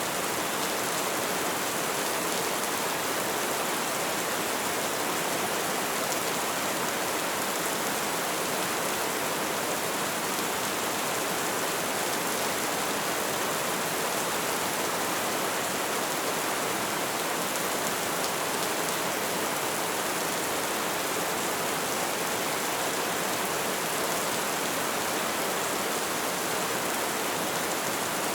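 Light rain falling, a steady, even hiss of drops with no let-up.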